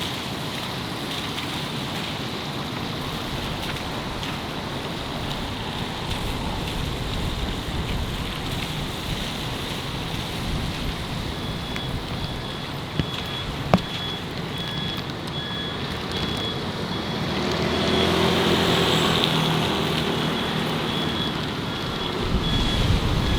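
City street traffic: a steady hiss of passing vehicles, with one vehicle's engine passing louder about 18 seconds in. A high electronic beep repeats evenly from about halfway through, with a single sharp click just before it.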